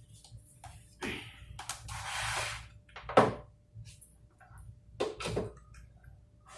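Handling noises from an electric water boiler as it is set up to be switched on: a clack about a second in, a brief scraping rustle, then a sharp loud knock a little after three seconds and two more knocks near five seconds.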